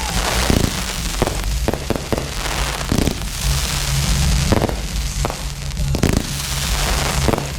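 Fireworks display: a rapid series of bangs from bursting shells, with stretches of crackling stars.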